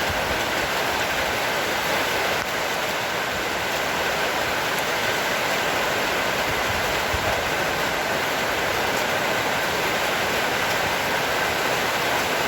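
Heavy rain pouring down in a steady, even rush, with wind.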